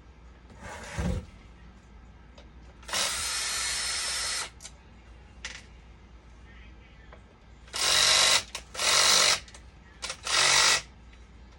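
Small electric power tool running in short bursts: one steady run of about a second and a half, then three louder bursts under a second each near the end.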